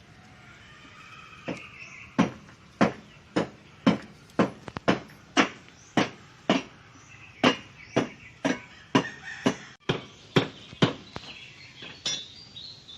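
Hammer striking repeatedly and evenly, about two blows a second, stopping about eleven seconds in.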